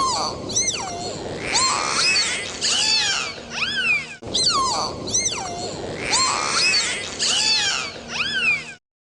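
Cats meowing over and over, many overlapping rising-and-falling calls, breaking off briefly about four seconds in.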